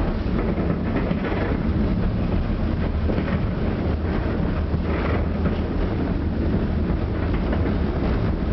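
Tram running along the line, heard from inside the car: a steady low rumble of the wheels on the rails and the running gear.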